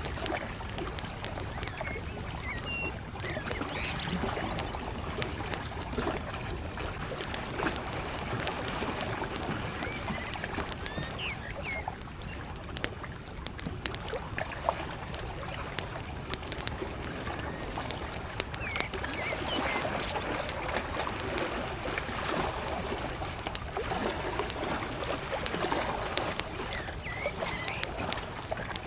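Campfire crackling with frequent sharp pops, over small lake waves lapping at the shore. A few short, faint bird chirps come through at intervals.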